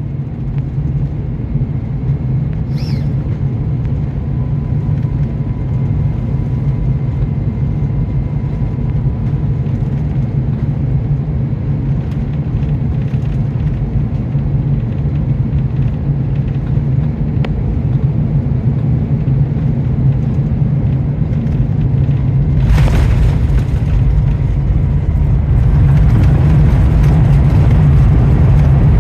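Airbus A350-1000 airliner on final approach: a steady low rumble of engines and airflow. About 23 s in, a sudden jolt marks the touchdown, and then the rumble grows louder and rougher as the aircraft rolls out on the runway.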